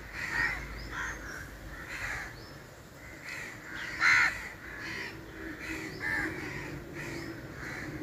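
Birds calling: a string of short, harsh calls roughly once a second, the loudest about four seconds in.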